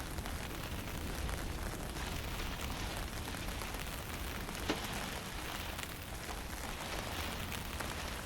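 Steady wind and fine drizzle, an even hiss with a low, fluttering rumble of wind on the microphone. One sharp tick about halfway through.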